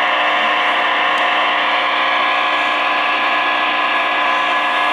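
CB radio receiver putting out steady static with several constant whining tones, a keyed-up but unmodulated carrier with heterodyne whistles heard through the radio's narrow speaker band.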